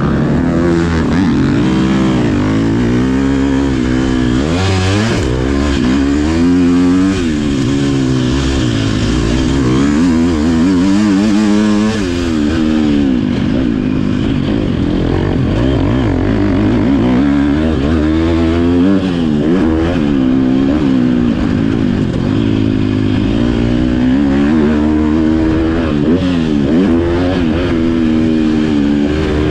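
Motocross bike engine revving hard and easing off over and over, its pitch climbing and dropping every second or two as the throttle opens and closes.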